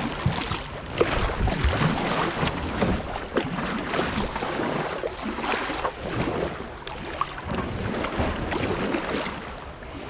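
Water rushing and splashing close around a kayak as it runs a shallow, rocky riffle, in a dense, uneven wash of many small splashes.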